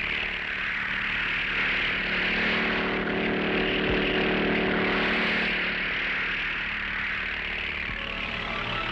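Engine of a small one-man kit helicopter running steadily. It swells a little louder around the middle.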